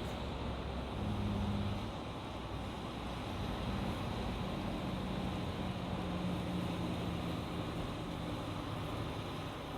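Road traffic on a highway: vehicles passing by with a steady mix of engine hum and tyre noise, a little louder about a second in.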